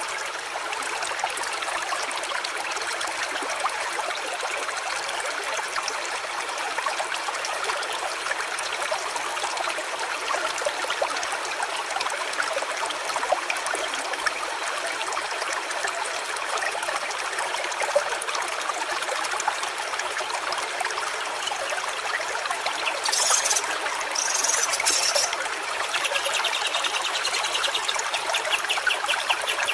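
A small stream trickling and running steadily over stones. Near the end, a fast, even series of high chirps starts up over the water.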